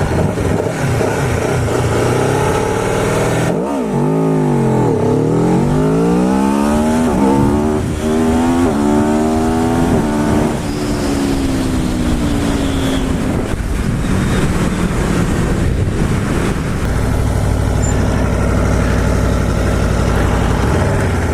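Aprilia Tuono V4 Factory's V4 engine making a full-throttle standing launch. About three and a half seconds in the revs dip as the clutch bites, then climb hard through several quick upshifts. After that the engine winds down off the throttle and settles into steady running.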